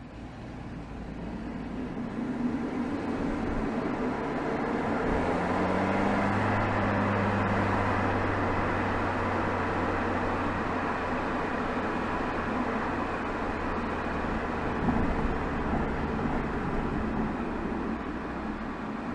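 Exhaust of a BMW 320xd's 2.0-litre four-cylinder turbodiesel, heard from beside the tailpipe while driving. It grows louder over the first several seconds, with a low engine drone strongest about five to eight seconds in, then settles into a steady run mixed with road noise.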